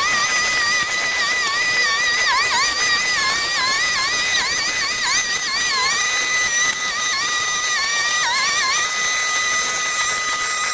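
Gas-powered brush cutter running at high speed, its pitch dipping briefly again and again as it bogs down in vegetation.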